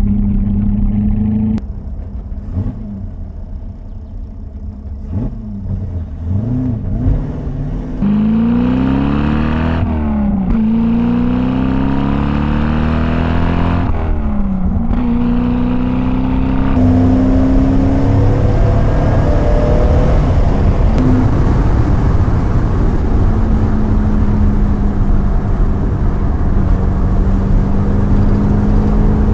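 TVR Grantura's 3.9-litre V8 under way on the road. The engine pitch climbs hard, breaks off briefly at two gear changes about ten and fifteen seconds in, then settles into a steady cruise under wind and tyre noise.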